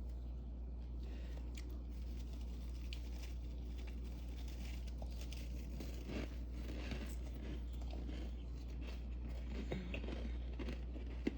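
Crisp freezer frost crunching in faint, irregular crackles that grow busier about halfway through, with one sharp snap near the end. A steady low hum runs underneath.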